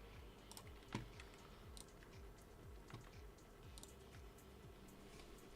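Faint, irregular clicks and taps of a computer keyboard and mouse, one a little louder about a second in.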